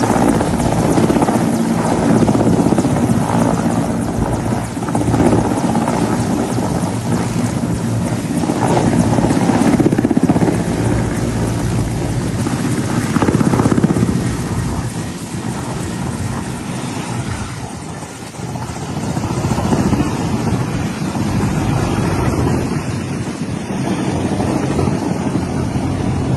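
Mil Mi-17 helicopter's twin turboshaft engines and main rotor running loud and close in a takeoff attempt, which the uploader reports ended in an engine failure. The level dips for a few seconds about two-thirds of the way through, then comes back up.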